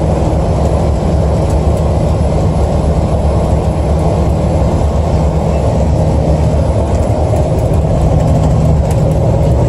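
Steady road and engine noise inside a car's cabin at highway speed: an even low drone of tyres and engine.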